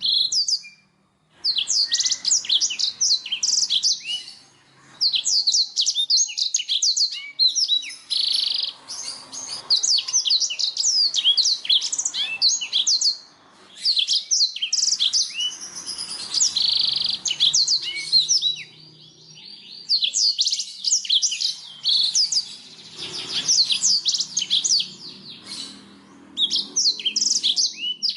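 Blackthroat (black-throated canary) singing: long phrases of rapid, high, sliding twittering notes, broken by short pauses of about a second.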